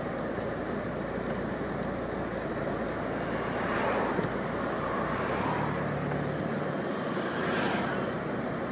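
Road traffic noise heard from a car, with vehicles passing about four seconds in and again near the end.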